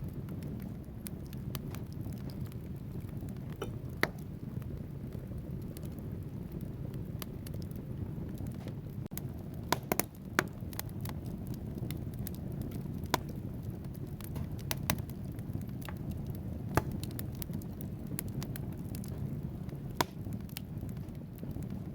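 Wood fire in a fireplace burning with a steady low rumble, the logs crackling and snapping every few seconds in sharp pops, a few of them much louder than the rest.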